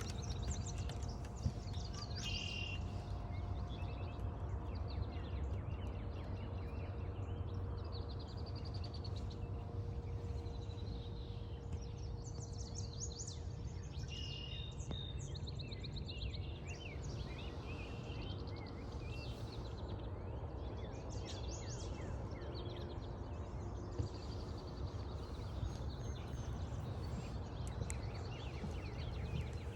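Several wild birds singing and calling at once, with short chirps and trills coming one after another throughout, over a steady low rumble.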